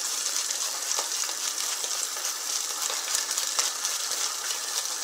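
Food frying in a pan, a steady sizzle with small crackles running through it.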